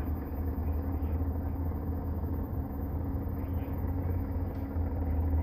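Low, steady rumble of a car engine running at idle, heard from inside the vehicle.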